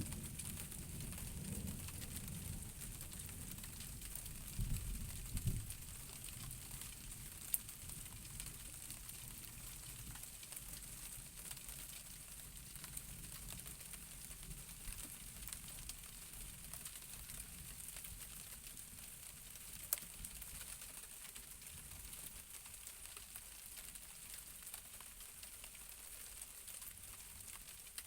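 Night thunderstorm: steady hiss of falling rain, with a low rumble of distant thunder in the first few seconds that dies away. Two sharp single clicks stand out, one about a third of the way in and one later on.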